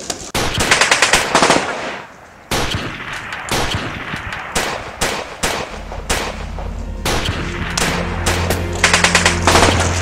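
Gunfire: a burst of automatic fire, then single shots at irregular intervals and a second automatic burst near the end. A low, steady droning music tone comes in about six seconds in.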